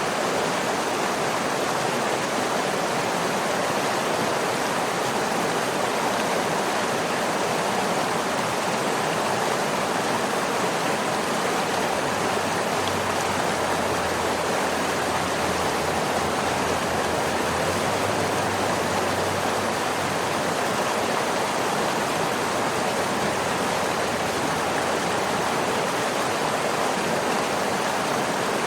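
Waterfall: a steady rush of falling water, even and unbroken, with no single splashes standing out.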